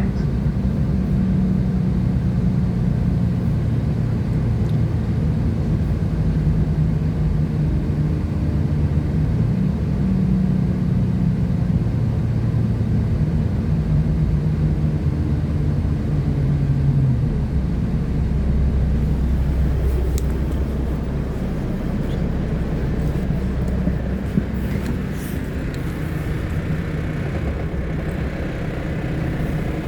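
A West Midlands Railway Class 172 diesel multiple unit heard from on board, its underfloor diesel engine running under power with a steady hum. About halfway through the engine note falls away to a lower, softer drone, and a few faint clicks follow.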